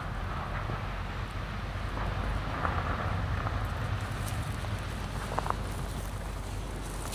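Wind rumbling on the microphone, with a few faint footsteps crunching on a gravel path.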